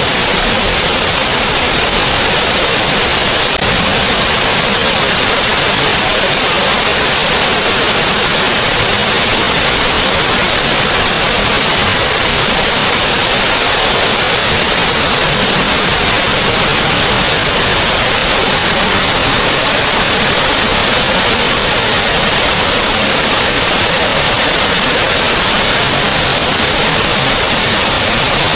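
Small forest waterfall rushing steadily, an even hiss of falling water with no change in level.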